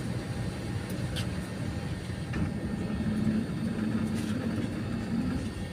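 Steady low rumble of an Airbus A320's engines and airframe, heard inside the passenger cabin while the jet is on the ground before takeoff. A low hum swells through the middle, and there are a few faint clicks.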